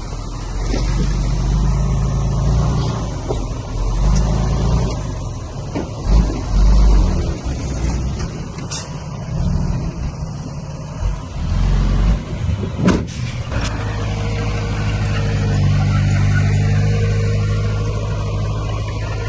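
Heavy earthmoving machinery's diesel engines running under changing load, with heavy low thumps around the middle and a couple of sharp clanks about thirteen seconds in, then a steadier engine drone.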